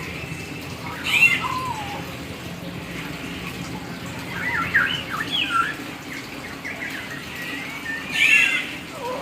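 Hill myna calling: a sharp gliding call about a second in, a quick run of chattering whistled notes around the middle, and another loud gliding call near the end, over a steady hiss.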